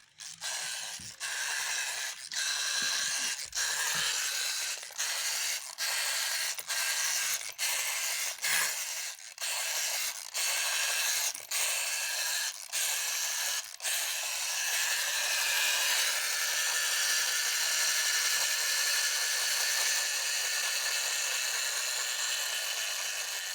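Toy washing machine running, its small electric motor and gear train whirring as the drum turns. For the first half the whir drops out briefly about once a second; after that it runs on steadily.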